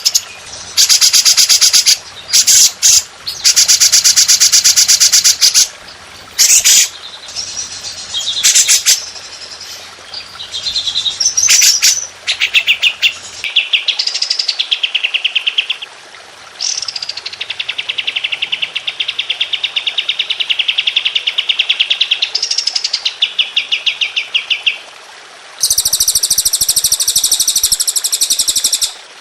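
Songbird song of rapid 'tembakan' trills: several short, harsh, rapid chattering bursts in the first dozen seconds, then a long, even trill of fast repeated notes, and a higher, buzzier trill near the end.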